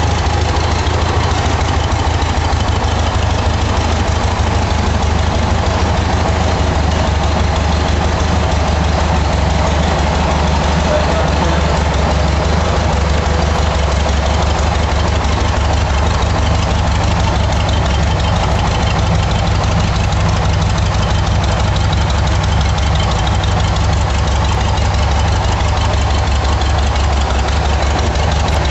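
Rebuilt 1300 cc Okrasa-tuned air-cooled Volkswagen flat-four engine on a test stand, running at a steady idle.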